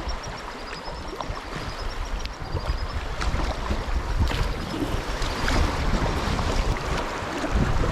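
Stream water rushing steadily, with wind buffeting the microphone in an uneven low rumble. A thin, high trill of rapid notes runs through the first three seconds or so.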